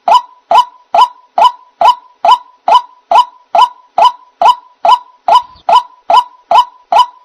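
White-breasted waterhen (ruak-ruak) calling, a short 'kruak' note with a quick rise in pitch, repeated evenly a little over twice a second. This monotonous repeated call is the one used as a lure sound for trapping the bird.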